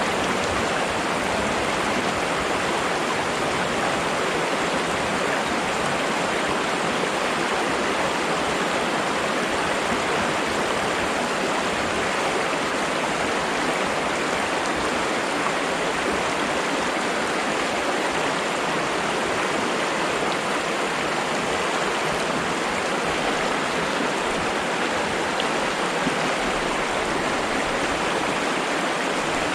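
Flowing water rushing steadily, an even continuous wash with no breaks or changes.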